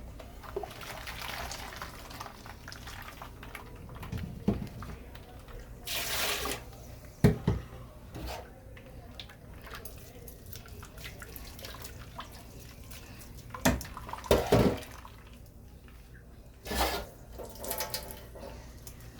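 Blended coconut and warm water being poured through a sieve to strain out the coconut milk, liquid splashing and dripping into a bowl. A few sharp knocks, as of the sieve or a utensil against the bowl, come about 7 s in, twice around 14 s, and again near 17 s.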